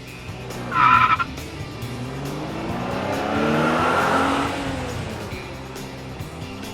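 A race car running past: a swelling engine sound whose pitch climbs and then drops as it peaks and fades, just after a short, loud horn-like tone about a second in.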